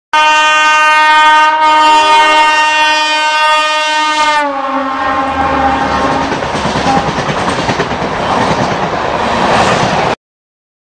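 Indian Railways electric locomotive sounding a long multi-tone horn as it approaches at speed, the horn's pitch dropping as the locomotive passes about four seconds in. The horn ends and the passenger coaches rush past close by, wheels running over the rails, until the sound cuts off abruptly near the end.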